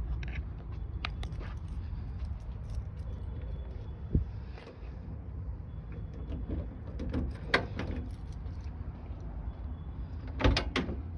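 Classic car's engine idling on a cold morning with a steady low rumble. A few sharp knocks and clicks come through about four, seven and a half and ten and a half seconds in, the last the loudest.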